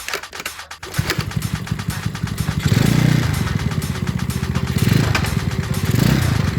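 Yamaha Mio automatic scooter engine, modified for grasstrack, running and being revved. It starts about a second in, revs up a couple of times, and has a putt-putt beat likened to a kelotok boat engine.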